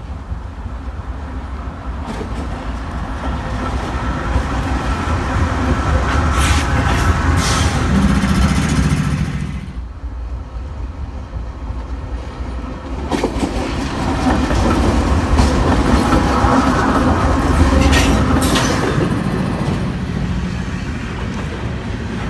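Cars of a long Union Pacific intermodal freight train rolling past slowly, wheels clicking over rail joints. The rumble swells, drops off abruptly a little before halfway, then builds again.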